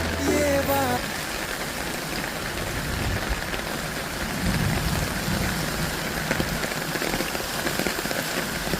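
Steady rain falling, an even hiss of drops. A song's music stops about a second in.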